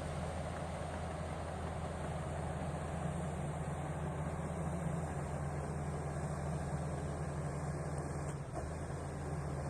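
Diesel engine of heavy mining earthmoving equipment running steadily, low and even, with a brief dip about eight and a half seconds in.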